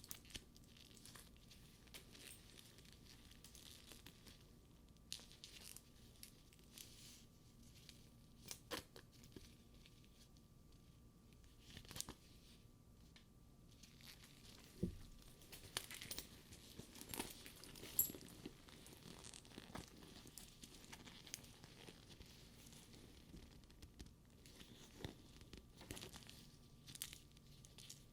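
Faint crackling and peeling of a sticky faux-leather purse surface being handled, with scattered light clicks of its metal buckles and studs and a soft thump about halfway through.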